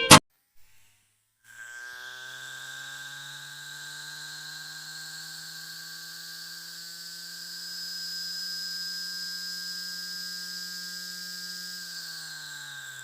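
Small DC motor running with a steady hum and a high whine, its pitch falling near the end as it slows.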